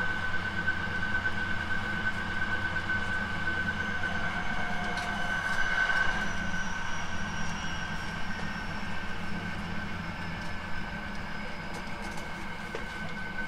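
Hankyu 9300 series electric train running at speed, heard from inside the car: a steady rumble of wheels on rail under a steady high whine.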